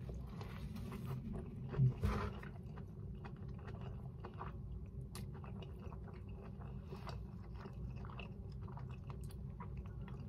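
A person biting into a burger and chewing it, with many small mouth clicks; the loudest moment, the bite, comes a little before two seconds in.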